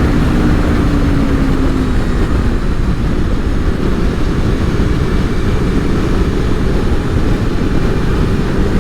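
Aprilia Tuono V4 motorcycle's V4 engine running while riding, under a heavy rush of wind noise. A steady engine note shows through for the first couple of seconds, then the wind rumble dominates.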